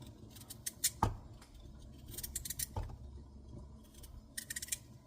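Kitchen knife working on a chocho (chayote): two short scraping strokes and a couple of light knocks.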